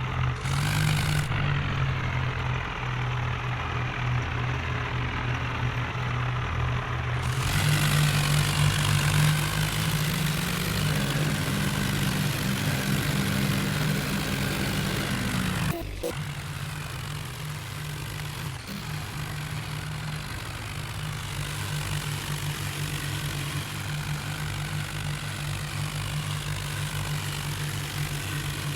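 Tractor diesel engine running steadily with a strong low hum, growing louder about a quarter of the way in; there is a sudden break about halfway through, after which it runs on a little quieter.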